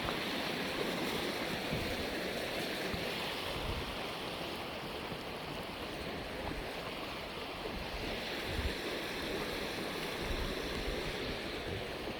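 Flowing floodwater: a steady rushing wash of moving water.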